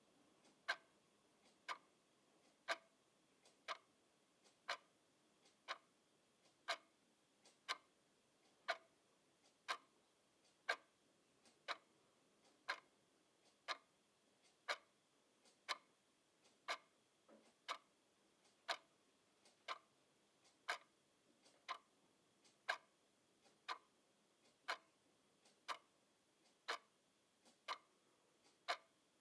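Clock ticking steadily, one sharp tick about every second, some ticks louder than others.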